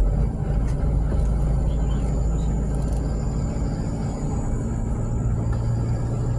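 A motor vehicle running with a steady low rumble; its hum shifts in pitch about five seconds in.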